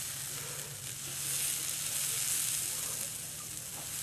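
Chicken legs sizzling on a grill over hardwood coals after being basted with water and butter, a steady hiss that swells and fades a little. A steady low hum runs underneath.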